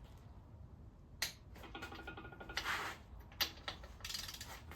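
Ratchet of a Husky click-type torque wrench ticking as it is worked on a main bearing cap bolt, on the first 35 ft-lb torque pass. The run of ticks is broken by two sharp clicks and short scraping noises.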